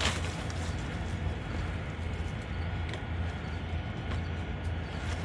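Wind buffeting a phone's microphone: a steady low rumble that swells and eases, with a sharp click at the start and a fainter one about three seconds in.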